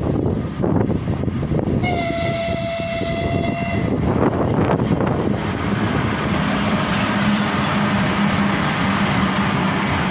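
A 2ES6 Sinara electric locomotive sounds one steady horn blast lasting about two seconds. The train then rolls past with a loud rumble and wheels clattering over the rail joints, and a steady low hum sets in about halfway through.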